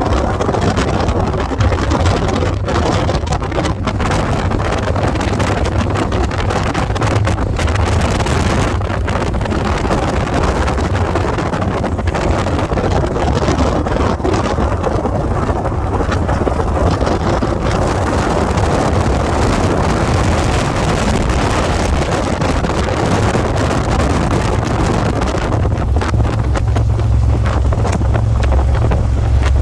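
Wind rushing over the microphone on a moving motorcycle, with the engine's low rumble underneath; the rumble grows stronger in the last few seconds.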